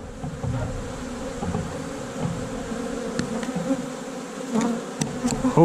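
Honey bees buzzing steadily around an opened hive during a frame inspection, with a few faint clicks and knocks.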